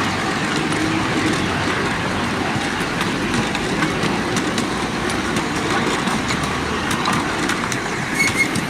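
7 1/4 inch gauge miniature train running along the track, a steady rumble of wheels on rail with a few light clicks near the end.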